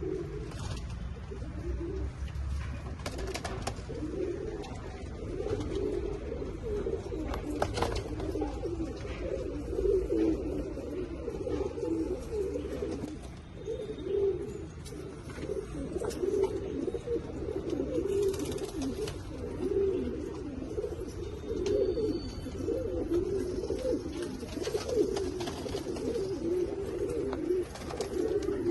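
Several domestic pigeons cooing continuously, overlapping calls, with occasional faint clicks and wing or cage noises.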